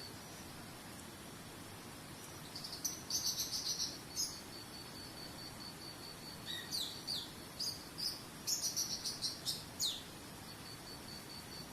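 A cricket's steady high, pulsing trill with a small songbird chirping over it: a quick twittering burst a few seconds in, then a run of short, downward-sweeping chirps before the trill carries on alone.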